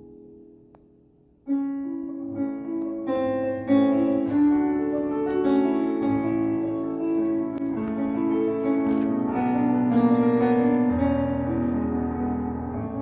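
Piano music: a held chord fades away, then about a second and a half in the piano comes back in with a melody over chords that grows fuller.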